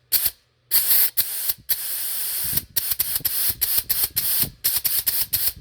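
Aerosol spray can spraying in quick short spurts, with one longer spray of about a second around two seconds in.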